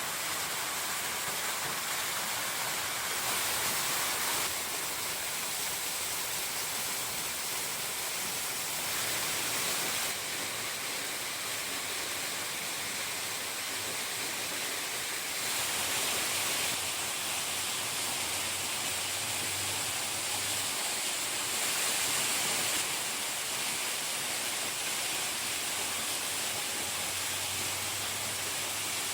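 Steady rush and splash of a small waterfall about 10 m high with little water. The noise changes abruptly in tone and level every few seconds.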